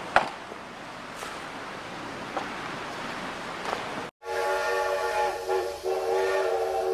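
A steady hiss of wind-like noise, then after a sudden cut a train whistle sounding one held chord of several notes for about three seconds.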